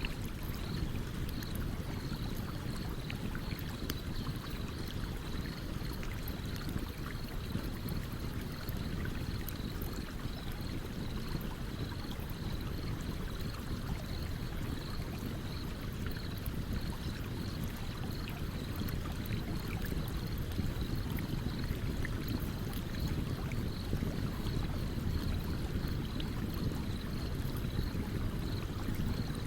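Running stream beside a campfire: a steady rush of water with sparse faint crackles and pops from the burning wood. A faint high note pulses evenly about twice a second throughout.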